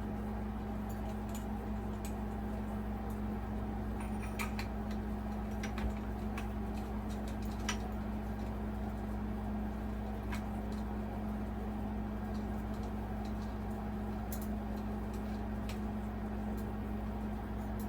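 Steady hum of a room air conditioner running, with scattered light clicks and taps of a glass light shade being handled and fitted to a ceiling fan light kit.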